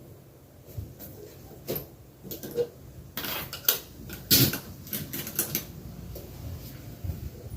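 Objects being handled: a run of irregular clicks, knocks and light clattering, busiest in the middle.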